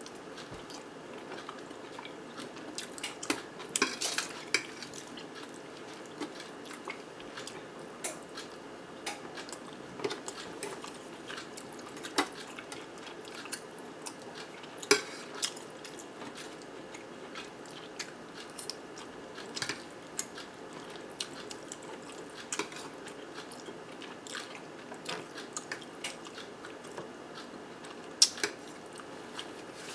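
Close-miked eating of cheesy zucchini boats with ground turkey: soft chewing, with scattered sharp clinks and taps of cutlery on a plate.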